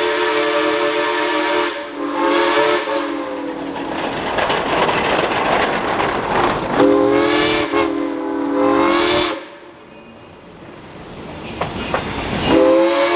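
Geared steam locomotive's chime whistle blowing several blasts, a chord of tones that sags in pitch as each blast closes off. A rushing noise fills the gap between the blasts.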